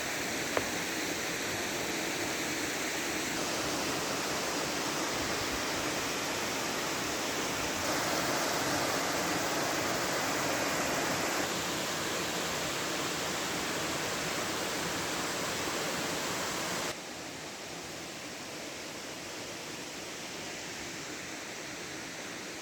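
Waterfall: a steady rush of falling water that shifts abruptly in level a few times and is quieter for the last few seconds. A single click about half a second in.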